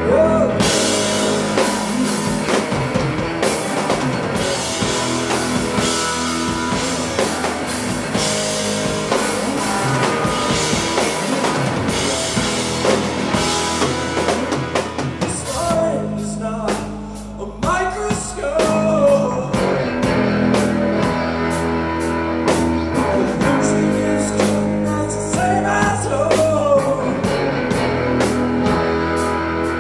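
Live rock band playing a song, with drum kit and electric guitar over a steady beat. The band drops back briefly about halfway through, then comes back in with regular drum hits.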